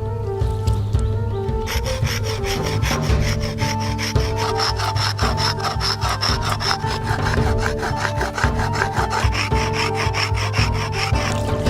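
A hand tool working wood in quick, regular scraping strokes, like hand sawing, starting about two seconds in and stopping shortly before the end. Background music plays throughout.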